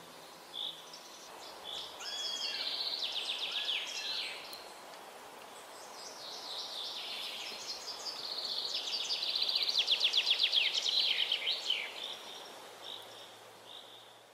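Birds singing: scattered short high chirps and two fast trilling phrases, one about two seconds in and a longer, louder one about eight seconds in, over faint outdoor background hiss, dying away near the end.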